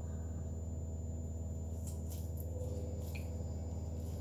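A steady low electrical hum, with a few faint soft clicks and taps about halfway through.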